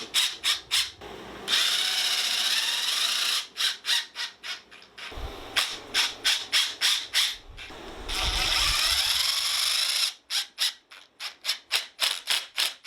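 Woodworking with tools: runs of fast, even strokes, about three to four a second, broken by two steady stretches of a power tool running, each about two seconds long.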